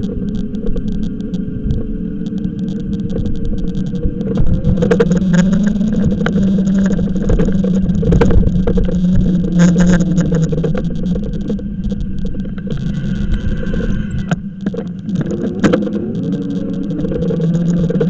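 Riding noise on an e-bike: a steady drone with tones that slowly slide up and down, mixed with scattered knocks and rattles.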